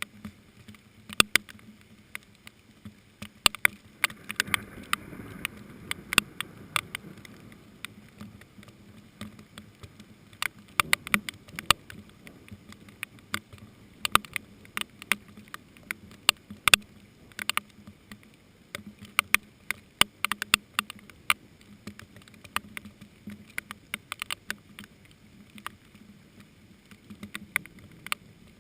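Rain falling, with large drops tapping sharply and irregularly close by over a faint steady patter.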